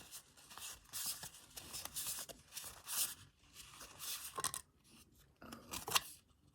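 Trading cards and their foil pack wrapper being handled: irregular dry rustling, scraping and crinkling as cards slide against each other, with a couple of sharp clicks near the end.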